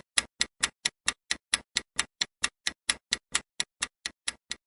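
Quiz countdown timer sound effect: a clock ticking fast and evenly, about four and a half sharp ticks a second, counting down the answer time.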